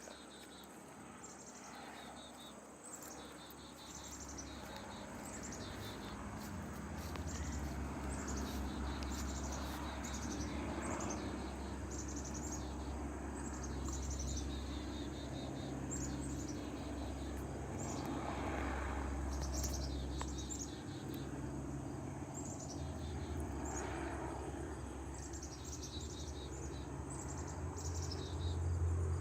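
Small birds chirping in quick repeated series, over a low steady rumble that swells after a few seconds and again near the end.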